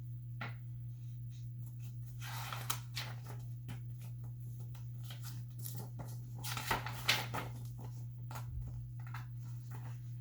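Playpin frame parts being handled during assembly: scattered clicks, knocks and rustles, in clusters about two seconds in and again around seven seconds, over a steady low hum.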